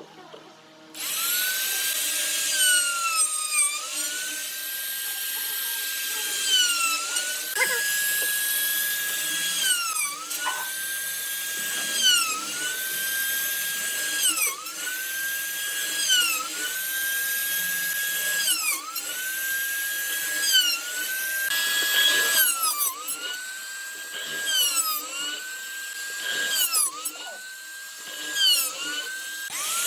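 A small high-speed power tool starts about a second in and runs with a steady high whine, working wood. Its pitch drops and climbs back roughly every two seconds as the motor bogs under load and spins back up, over and over.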